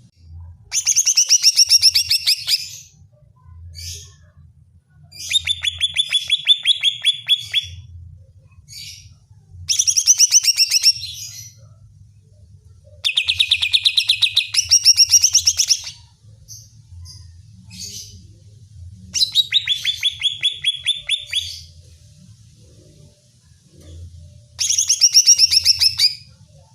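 Greater green leafbird (cucak ijo) singing in six loud bouts of rapidly repeated high notes with short pauses between them: the agitated, fierce song used to rouse other leafbirds.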